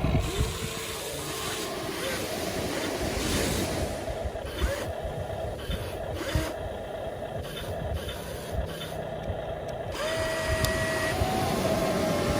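Electric motors of a radio-controlled toy excavator whining, the pitch shifting as it works, over gritty scraping noise and small clicks.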